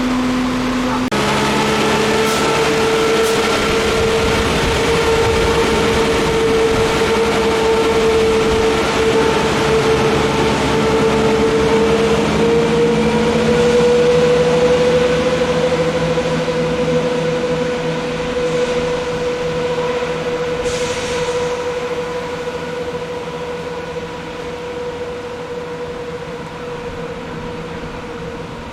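Diesel train running through with a steady whine over a rumble of wheels and engine, fading away over the last ten seconds or so.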